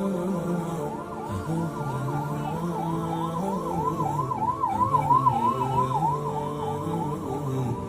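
Emergency vehicle siren on a fast warble, rising and falling about three times a second, growing louder toward the middle and then easing off.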